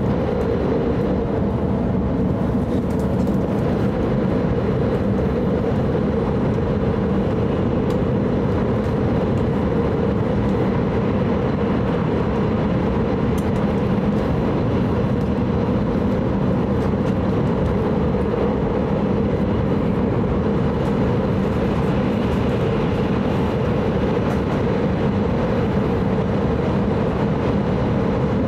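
Cabin running noise of an E5 series Shinkansen: a steady, unchanging low rumble with a constant hum, heard from inside the passenger car.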